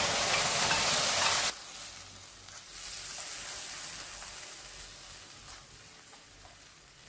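Tomato, cashew and green-chilli paste frying in hot mustard oil in a steel kadhai: a loud hiss that drops off sharply about a second and a half in, then a quieter sizzle as the paste is stirred with a spatula, slowly fading.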